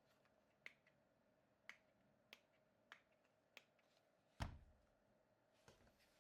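Faint, sharp clicks about once a second and one louder knock about four and a half seconds in, over very quiet room tone: handling of a toy RC car or its packaging.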